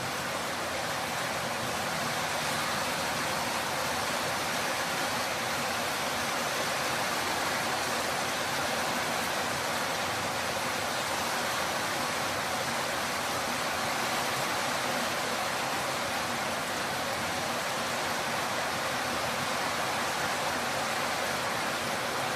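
Torrential rain pouring down as a steady, even hiss.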